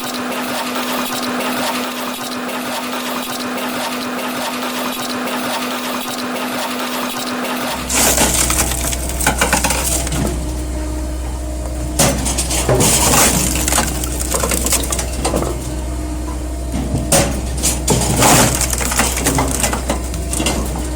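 Pinosa F500 electric firewood processor working. For the first eight seconds it makes a steady dense rasping run. Then a low machine hum comes in, with repeated sharp cracks and crunches of wood breaking.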